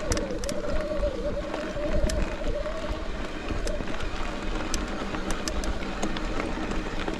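Mountain bike rolling over a dirt and rock trail: steady tyre and wind noise with scattered sharp rattles and clicks from the bike, and a wavering whir for the first three seconds or so.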